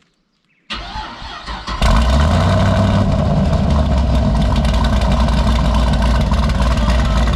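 The Caprice PPV's 6.0-litre V8 starting: the starter cranks briefly about a second in, the engine catches and then runs loud and steady. A turbo whistle is clamped in the exhaust tip, but the exhaust flow is too weak to make it whistle.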